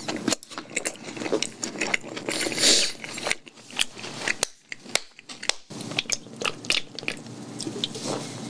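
Chewing and biting into crispy boneless fried chicken, with many short crunches and crackles.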